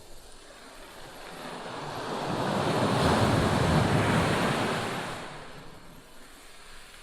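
A Barents Sea wave breaking on the shore: a rush of surf that builds over about two seconds, peaks, then dies away.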